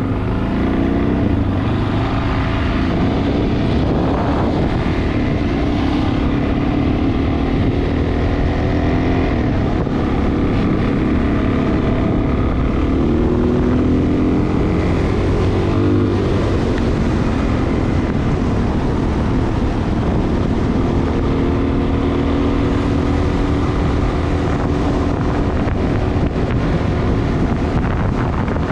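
Dual-sport motorcycle engine running under way, its note rising and falling several times with throttle and gear changes, over steady wind rush on the microphone.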